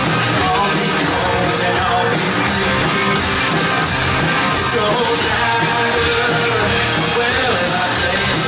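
Live worship band playing rock-style music at full volume, with guitars and drums and some singing mixed in.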